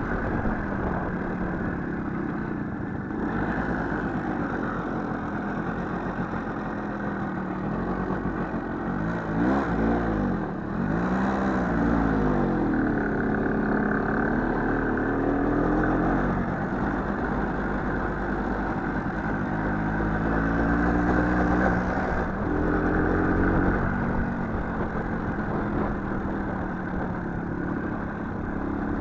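Small motorcycle engine running under way off-road, revved up and down so its pitch repeatedly rises and falls.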